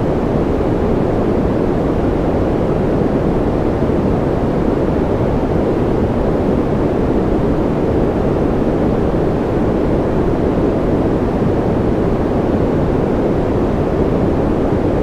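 Steady white-noise sleep track: an even, unchanging rush, deep and full, with little high hiss and no separate drops or clicks.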